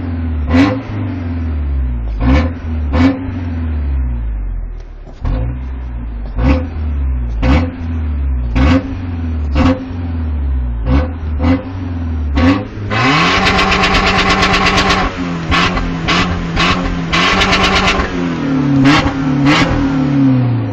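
Toyota Tacoma pickup engine being revved hard: a string of quick throttle blips, each rising and falling. About two-thirds through it is twice held at high revs for a few seconds with a rapid stutter, then it goes back to blipping.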